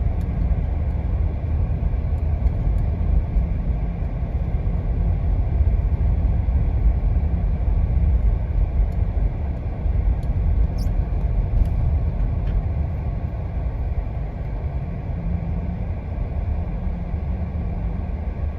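Steady low rumble of a Jeep driving on snowy roads: engine and tyre noise, with a couple of faint ticks near the middle.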